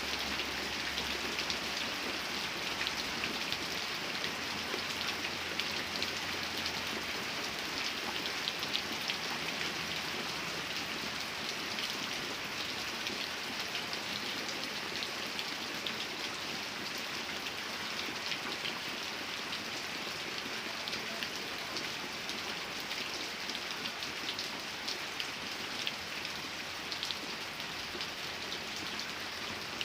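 Steady rain falling, an even hiss of rainfall with many small drop ticks throughout.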